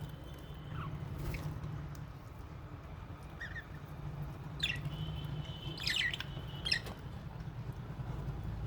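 Small aviary parrots (budgies and lovebirds) giving a few short, sharp chirps, bunched in the second half, over a steady low hum.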